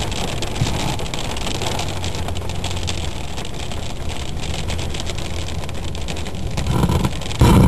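Storm wind and rain: a steady rushing noise over a low rumble, flecked with many fine crackles. A much louder noise cuts in suddenly at the very end.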